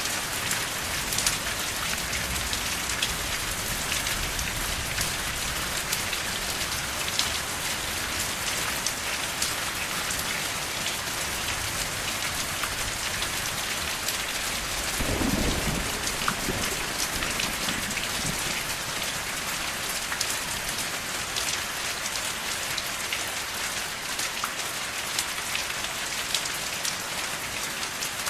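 Steady rain falling on a surface: a dense patter with individual drops ticking through it. About halfway through, a brief low rumble swells for a second or two and fades.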